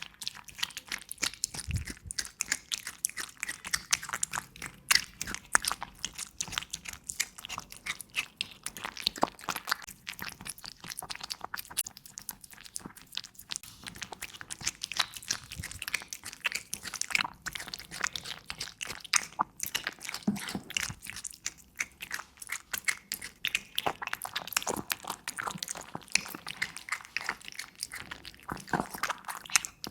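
A cat eating, crunching and chewing dry food in a fast, continuous run of crisp crunches.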